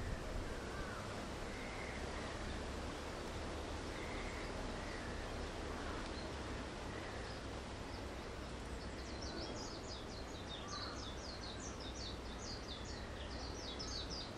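Outdoor ambience: a steady low rumble with a few faint short bird calls, then, from a little past halfway, a small bird twittering in quick, high chirps for several seconds.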